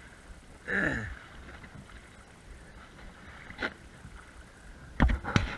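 Steady rush of river water around a wading angler, with a brief falling voice-like sound about a second in and a few sharp knocks near the end.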